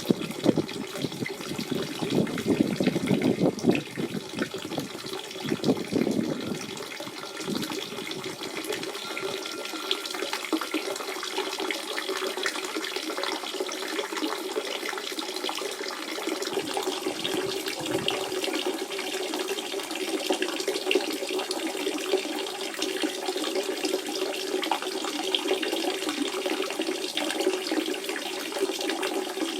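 Natural spring water running and splashing in a steady flow. It sounds fuller and deeper for the first six seconds or so, then settles into an even, lighter rush.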